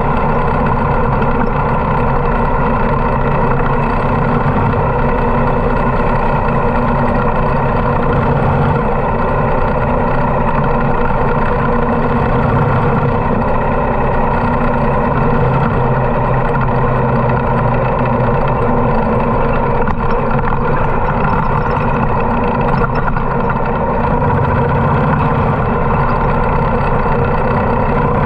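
Harley-Davidson V-twin motorcycle engine running steadily at an even speed, with no revving up or down.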